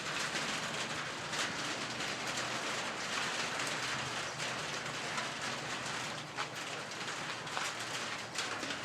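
Light rain still falling as a shower tapers off: a steady hiss with scattered individual drops ticking.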